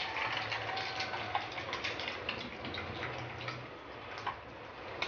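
Egg-dipped bread slices frying in hot oil: a steady crackling sizzle with many small pops.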